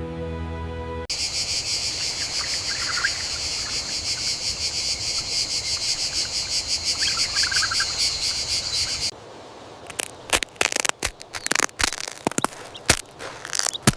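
A chorus of insects trilling in a rapid, steady pulse, with two brief bird chirps in it. About nine seconds in, the chorus cuts off and a run of sharp, irregular crackles and snaps follows.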